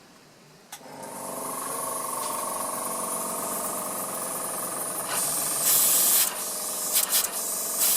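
Small hand-built 1912 oscillating engine, run on compressed air, starting up about a second in and then running with a steady hiss of air through it. Louder spurts of hissing air come about five seconds in and again near the end.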